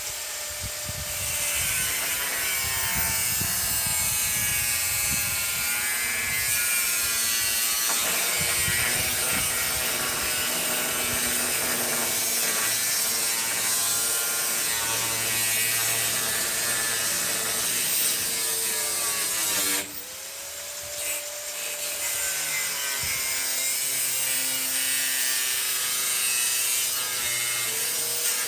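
Electric power tool working on wood, its motor running under load with its pitch sagging and recovering. It stops briefly about twenty seconds in, then starts again.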